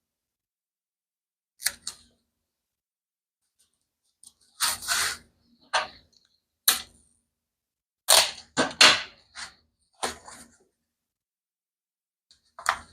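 Short, sharp crackles and clicks of paper and double-sided tape being handled while a folded paper book is taped down, some coming in quick clusters.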